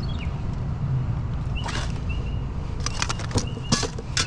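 Items being rummaged through in a pile of discarded electronics and wire: a few scattered clatters and rattles over a steady low rumble, with several short high chirps.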